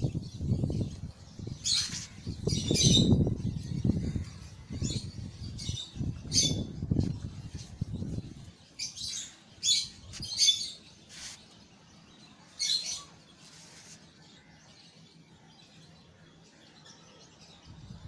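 Small birds chirping in short, high calls, in clusters for the first dozen seconds, then dying away. A low rumbling noise runs under the first half and stops about eight and a half seconds in.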